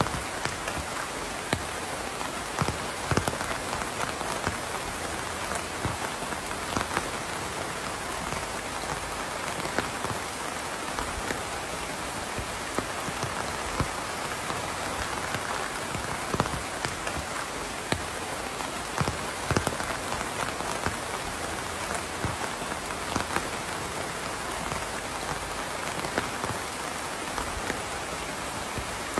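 Steady rain falling, an even hiss with many scattered sharper drop hits throughout.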